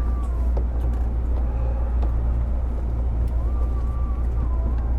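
Steady low hum and rumble inside a JR 205-series electric train car, even in level, with no rising or falling traction-motor whine.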